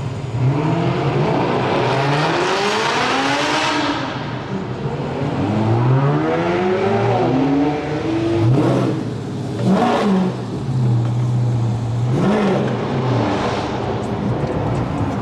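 Car engine revving repeatedly. Two long revs rise and fall in the first half, then three quick sharp blips follow. Between them the engine drops back to a steady idle.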